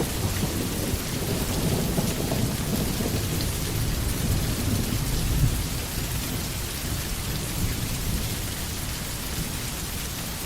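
Steady rain falling on a forest, an even hiss, with a low rumble of thunder that swells and then fades over the first half.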